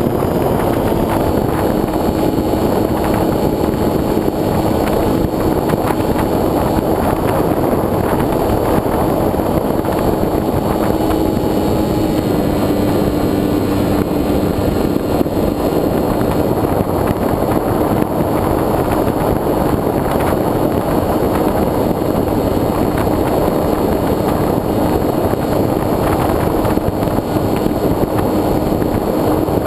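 Wind rushing over a GoPro mounted on the wing of a foam RC airplane in flight, with the steady hum of the plane's motor and propeller; the hum's pitch dips slightly about twelve seconds in.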